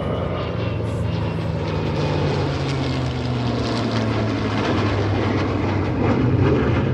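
Aircraft engine droning steadily overhead.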